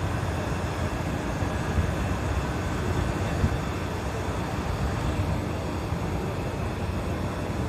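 An engine running steadily on a test run: a continuous low rumble that holds the same speed throughout.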